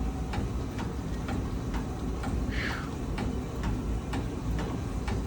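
Stationary exercise bike being pedalled: an even clicking about three times a second over a low rumble, with one short falling squeak about halfway through.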